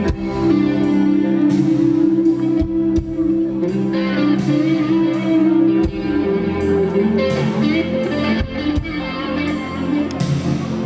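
Live band playing an instrumental passage led by electric guitar, with no singing.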